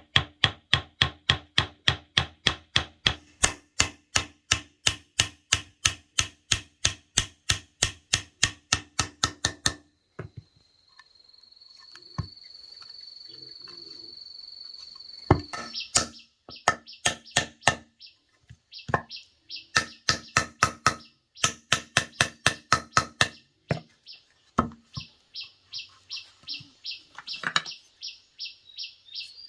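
Rapid, evenly spaced blows of a tool on wood, about three to four a second, in a long run that stops about a third of the way in, then resumes in shorter runs. Between them a steady high whistle-like tone, and near the end a rapid high chirping.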